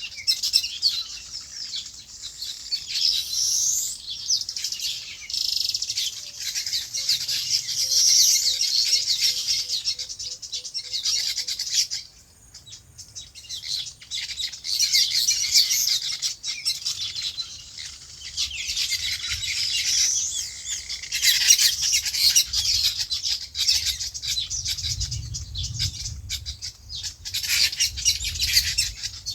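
Many small birds chirping together in a dense chorus of quick, high-pitched calls, with a brief lull about twelve seconds in. A faint, evenly repeated lower note runs for a few seconds partway through.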